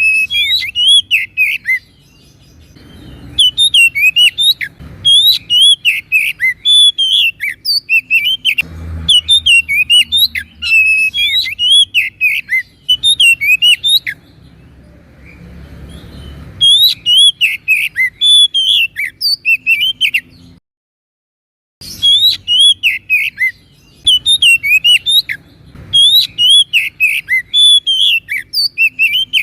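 Oriental magpie-robin (kacer) in full, loud song: fast runs of varied whistles and chirps in phrases broken by short pauses. The sound cuts out completely for about a second about two-thirds of the way through.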